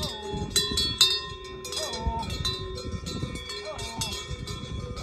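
Many cowbells clanking irregularly, as from a herd of grazing cows, each strike ringing on briefly.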